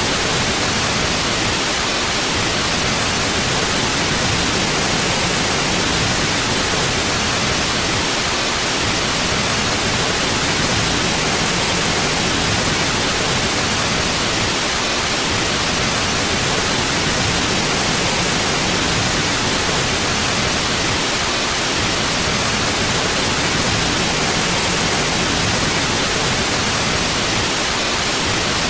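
Steady, even white noise (synthetic hiss) with no change throughout, cut off above about 10 kHz.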